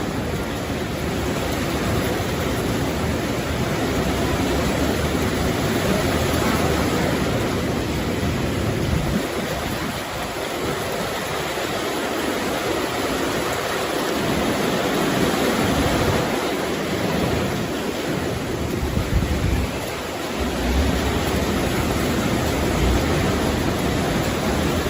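Strong storm wind blowing steadily, with gusts buffeting the microphone in a low rumble that comes and goes.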